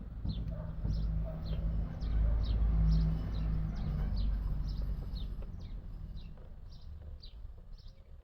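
A bird chirping over and over, short falling notes about twice a second, over a low rumble that swells about two to three seconds in and then eases off.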